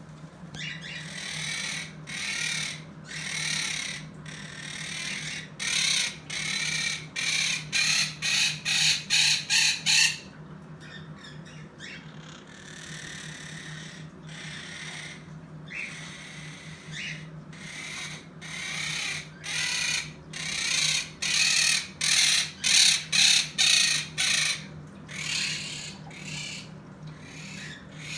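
Pet birds calling over and over in quick runs of harsh, noisy calls, with a short lull about a third of the way through. A steady low hum runs underneath.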